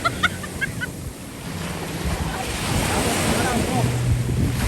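Ocean surf washing onto a beach, the noise dipping about a second in and swelling again as the next wave comes in, with wind buffeting the microphone. A few short, distant voices cut through near the start.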